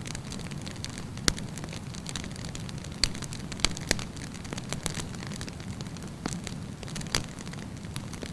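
Wood campfire burning: a steady low rumble of flame with sharp crackles and pops at irregular intervals, a few of them louder.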